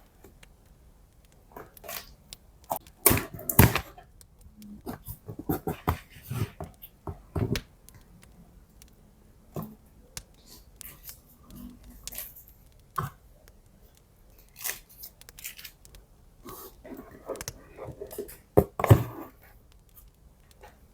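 Hands handling stationery packaging during an unboxing: irregular taps, clicks and rustles of paper and plastic, some sharp and loud, with short pauses between them.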